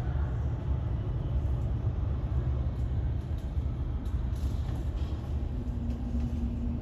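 Low, steady rumble of a landing jet airliner's engines. A steady low hum joins in near the end.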